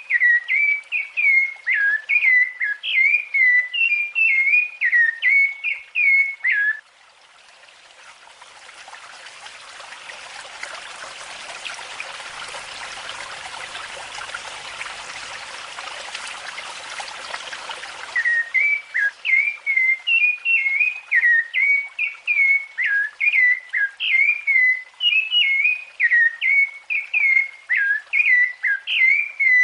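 Rufous-bellied thrush singing: a long run of short, fluty whistled phrases. In the middle the song stops for about eleven seconds while a steady hiss rises and holds, then the singing resumes.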